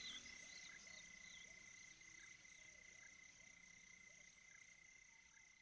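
Faint night ambience of insects and frogs: a steady high trilling with small chirping calls every half second or so, slowly fading out.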